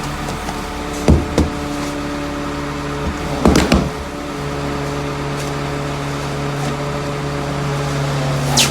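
Rear-loader garbage truck engine running steadily, with loud metallic clunks and bangs about a second in and again around three and a half seconds, and a short hiss near the end.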